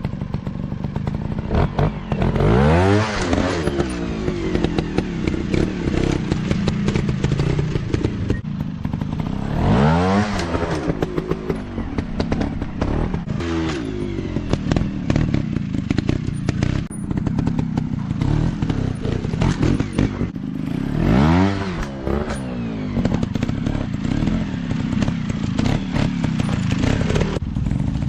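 Dirt bike engine running and revving up sharply several times, the pitch climbing on each burst between stretches of steadier running.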